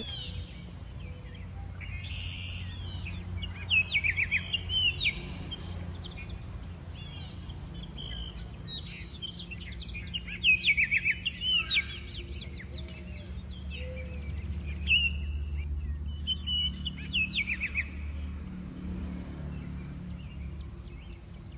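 Birds chirping outdoors in three short clusters of quick, falling chirps, over a steady low hum.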